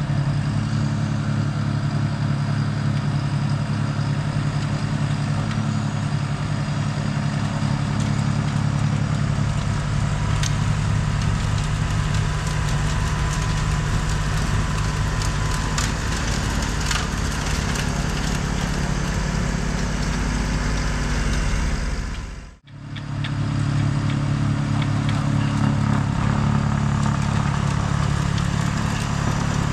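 Tractor diesel engine running steadily under load while a tractor-mounted snowblower chews through heavy wet snow, with a churning, crunching noise over the engine. The sound drops out sharply for a moment about two-thirds of the way through, then picks up again.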